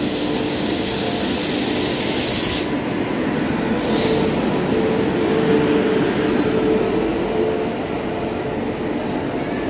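WAP-7 electric locomotive and its coaches rolling past along the platform as the train pulls in: a loud, steady rumble of wheels on rail with a hum, and a high hiss that drops away about two and a half seconds in.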